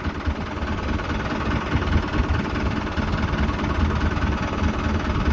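A boat's engine idling steadily with a low rumble.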